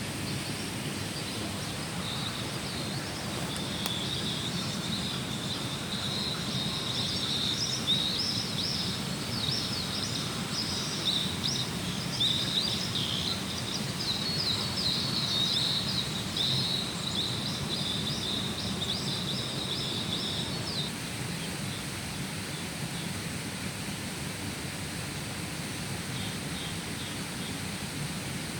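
A small bird singing a long run of rapid, high chirps and trills for about twenty seconds. The song stops, and a few faint chirps come back near the end. Under it runs a steady low outdoor rush.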